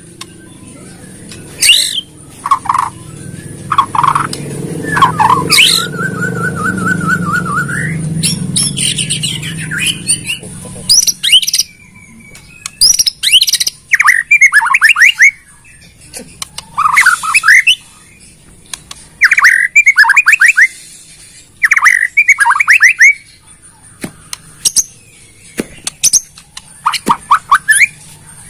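White-rumped shama (murai batu) singing: short whistled notes and a held whistle, then repeated bursts of fast rattling notes that fall in pitch, each about a second long. A low hum runs underneath for the first ten seconds or so, then stops.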